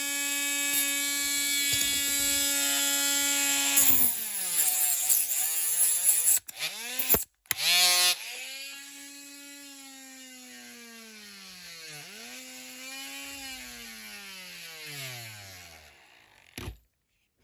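Small handheld rotary tool motor running at a steady pitch, then slowing and speeding up several times as it cuts the model's interior part. It winds down and stops near the end.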